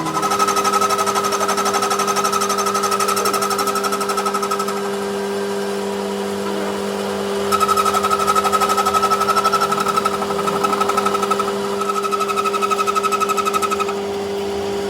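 A power tool hammering rapidly over a steady hum, in two spells with a lighter stretch in between.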